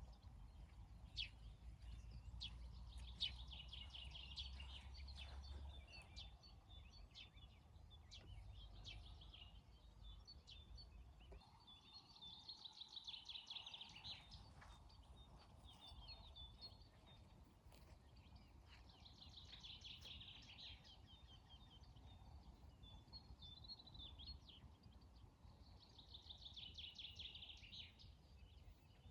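Faint morning birdsong: one bird repeats a rapid, high trilled song about every seven seconds, with scattered chirps between, over a low rumble that stops about eleven seconds in.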